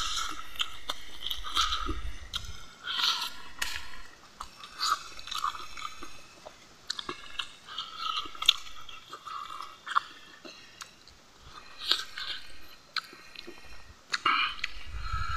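A man chewing mouthfuls of rice and fish curry eaten by hand, close to the microphone: irregular wet smacks and clicks of the mouth coming in clusters with short pauses between them.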